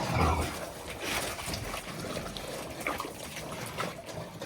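Pigs feeding on fresh milk at a trough: trickling, sloshing liquid mixed with pig noises.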